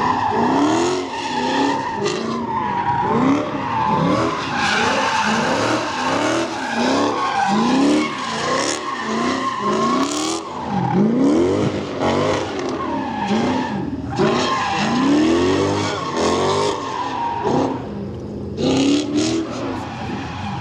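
Drift car on a track, its engine revving up and down over and over while the tyres squeal in a long slide.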